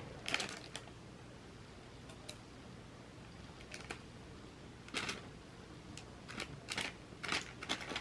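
A person eating fruit snacks as quietly as they can, close to a microphone: scattered short, soft clicks and crinkles, coming more often near the end.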